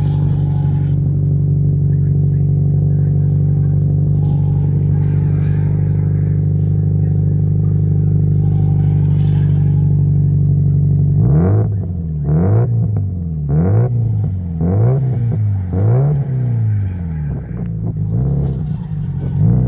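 Subaru Impreza STI Spec C's turbocharged flat-four engine idling steadily on a cold start. About eleven seconds in, it is revved in a string of about six quick throttle blips, roughly one a second. It then settles back to idle near the end.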